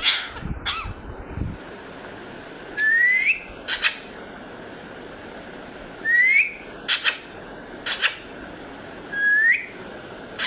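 Pet green parrot whistling a short rising note three times, about three seconds apart, each followed by one or two short, sharp calls.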